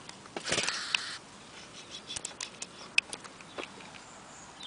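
Rustling of garden netting being handled and cut around a trapped bird's foot, a brief burst of rustling about half a second in followed by scattered small clicks and ticks, one sharper click about three seconds in.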